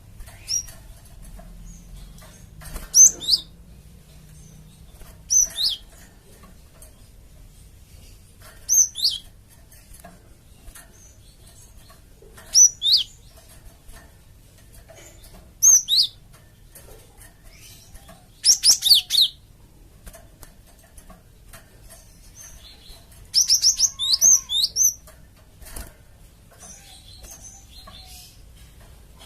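Cinereous tit (gelatik batu) calling: short, high notes that sweep downward, mostly in pairs about every three seconds, with a quick run of several notes near the end.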